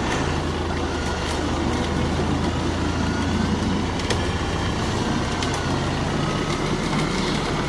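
Off-road 4x4 engine running steadily at low revs, with a faint wavering whine and a few light clicks.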